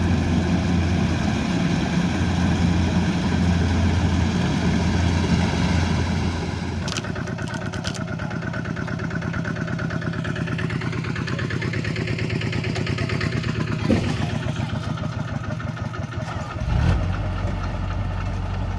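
Combine harvester's diesel engine running steadily with a strong low hum. About six seconds in the sound shifts to a lighter, rapidly pulsing running, with a sharp knock near 14 seconds and a thump about 17 seconds in.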